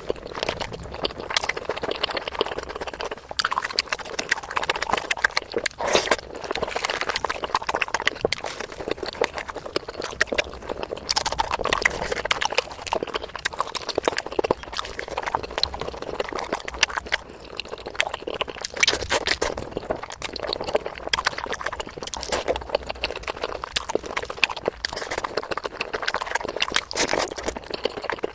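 Close-miked eating of a rice-and-curry meal: continuous wet chewing and lip-smacking, a quick run of small clicks and squelches.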